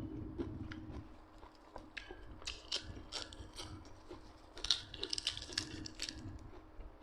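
A person chewing and crunching food close to the microphone: a run of sharp, crackling bites, busiest from about two to six seconds in.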